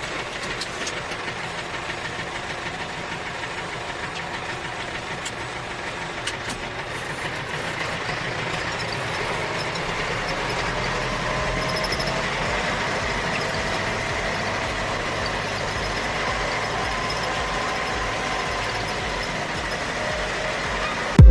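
Small motor of a DIY toy tractor running steadily, growing a little louder about eight seconds in.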